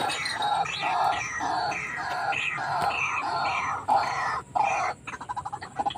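White-breasted waterhen calling: a steady run of repeated harsh notes, about two a second, that breaks off about four seconds in, followed by a few sharp knocks and a quick clatter.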